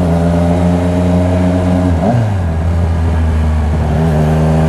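Triumph Speed Triple RS three-cylinder engine through an SC Project titanium exhaust, running at steady revs under way; about two seconds in the pitch drops sharply as with an upshift, then holds steady at lower revs. A light hiss of wind runs underneath.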